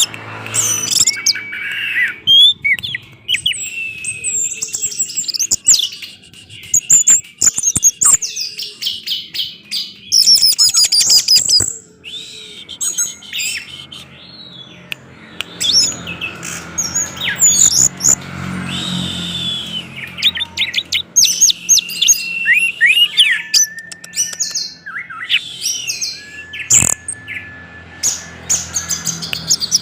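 Orange-headed thrush singing a long, varied song of rapid whistles, trills and sharp chirps, in quick phrases with short pauses between them.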